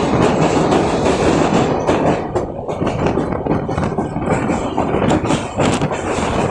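Pakistan Railways train running along the track, a steady rumble with the wheels clacking over the rail joints.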